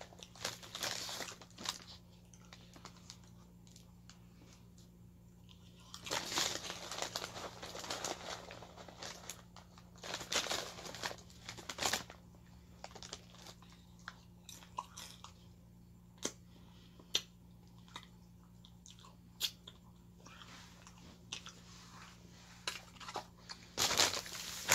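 A person chewing food close to the microphone, in irregular bursts with pauses, mixed with clicks and rustling as a plastic tub is handled. A faint steady hum runs underneath.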